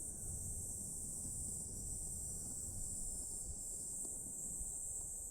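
Steady high-pitched shrilling of a summer insect chorus, unbroken throughout, with a low rumble underneath.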